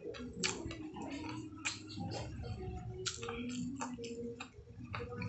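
Close-up eating sounds of someone chewing a pork chop: wet mouth clicks and lip smacks at irregular intervals.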